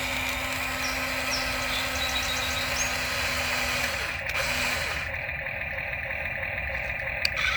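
Toy RC excavator running: a steady electric-motor and gear whir with a constant hum, which changes about four to five seconds in as it switches to a different movement.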